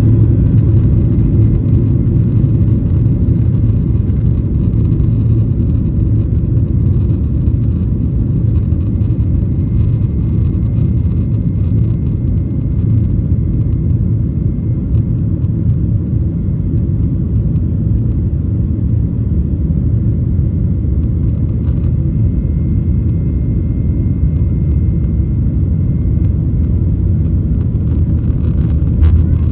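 Boeing 737-900 with its CFM56-7B turbofan engines during takeoff: a loud, steady low rumble with a faint thin whine above it, unchanging throughout.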